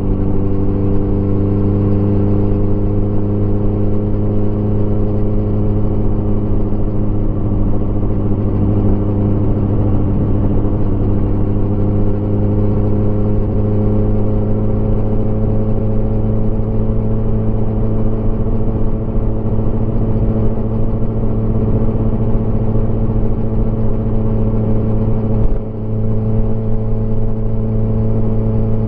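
Motorcycle engine running steadily under way, its pitch slowly rising as it gains speed, with a brief drop in sound near the end before it picks up again.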